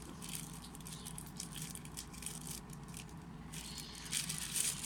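Handling noises: irregular rustling and light rattling, over a steady low hum.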